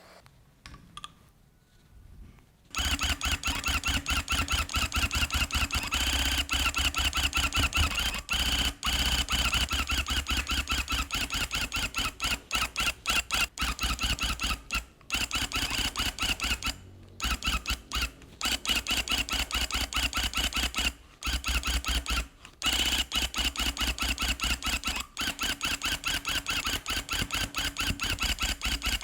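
Electric rug-tufting gun running in rapid, even strokes as it punches yarn through the backing cloth. It starts about three seconds in and stops briefly several times before running on.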